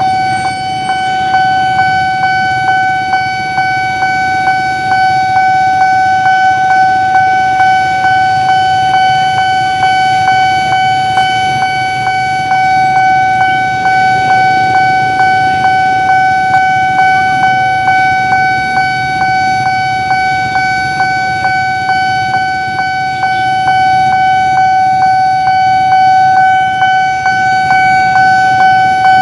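Railway level-crossing warning alarm sounding continuously: a steady electronic tone pulsing about twice a second, over a low traffic rumble.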